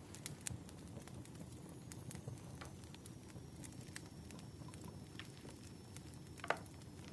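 Wood fire crackling: a steady low rumble with scattered sharp pops, one louder pop near the end.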